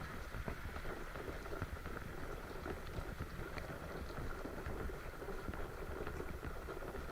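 Steady rainfall: a dense patter of many small drops landing, with no one drop standing out.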